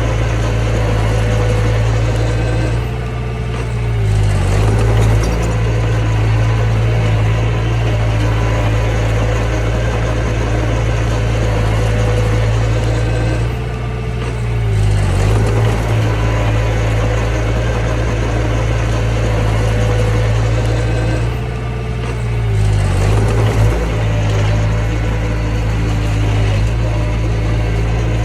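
Mini bulldozer's diesel engine running steadily under work. Its note briefly drops and shifts three times, roughly every nine seconds.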